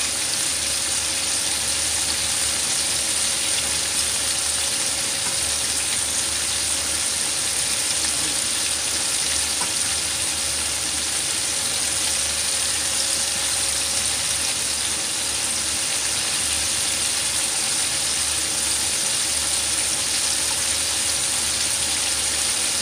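Chicken karaage pieces deep-frying in a pan of hot oil: a steady, dense sizzle.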